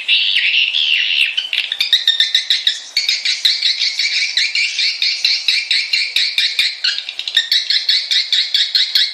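Swiftlet lure calls, as played to draw swiftlets to roost: a warbling twitter for about the first second and a half, then a fast, even run of repeated high chirps, about four a second.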